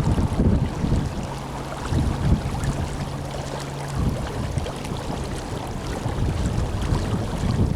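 Tenryū River flowing strongly, a steady rush of water, with wind buffeting the microphone in low gusts. A low steady hum runs briefly from about a second in to about four seconds in.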